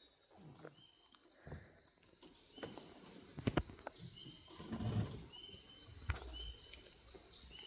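Forest ambience: a steady high-pitched insect drone, with short bird chirps repeating about once a second and a sharp click about three and a half seconds in.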